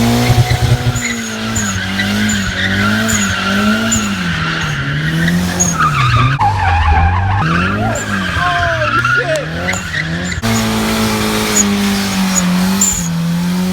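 Turbocharged rear-wheel-drive Subaru drifting: the engine revs rise and fall over and over as the tyres squeal. There is an abrupt jump to another stretch of revving about ten seconds in.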